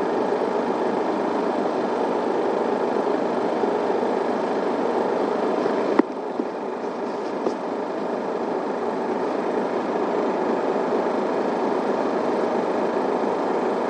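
Inside an Isuzu Erga city bus: steady diesel engine and road noise. A sharp click comes about six seconds in, and after it the sound is a little quieter for a few seconds.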